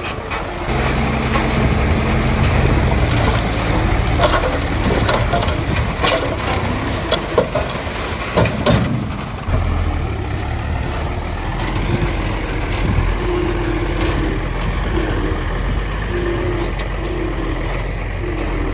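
Heavy diesel construction machinery running, with a cluster of metallic clanks and knocks between about four and nine seconds in. The engine note shifts lower about halfway through.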